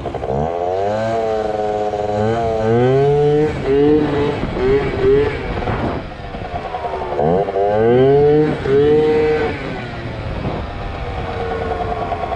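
Yamaha ZR Evo two-stroke scooter engine revving hard, its pitch climbing in steps. The revs drop sharply about six seconds in, climb again, and settle to a steadier run near the end.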